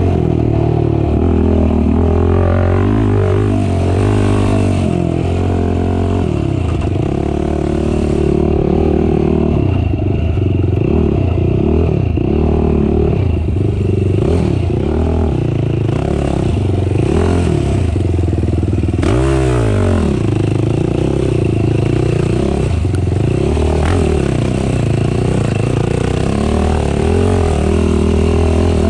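Race ATV engine being ridden hard, its pitch rising and falling again and again as the throttle is worked and gears change, with a sharp drop and climb back up about two-thirds of the way through.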